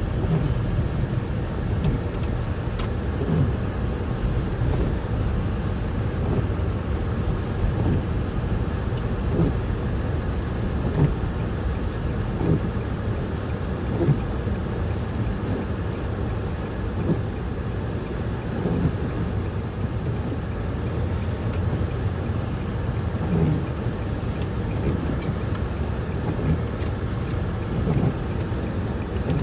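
Snowstorm wind blowing on the microphone: a steady low rushing with irregular gusts.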